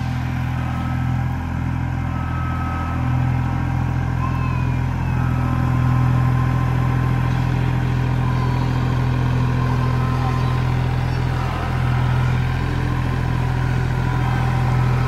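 An engine running steadily, a continuous low drone that swells slightly now and then.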